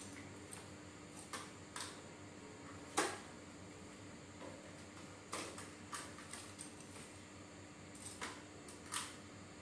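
Scattered light clicks and taps, about seven in all at uneven intervals, the sharpest about three seconds in, over a faint steady hum.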